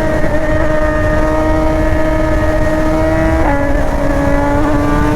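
BMW S1000R's inline-four engine pulling under throttle, its pitch climbing slowly, then dropping suddenly about three and a half seconds in as it shifts up a gear and starts climbing again. Heavy wind rush on the microphone underneath.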